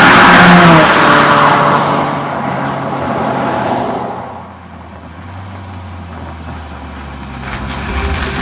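Honda Fit's exhaust through an HKS Hi-Power aftermarket muffler: a loud engine note rising in the first second, then fading away over the next few seconds. A lower, steady engine hum follows and grows louder near the end.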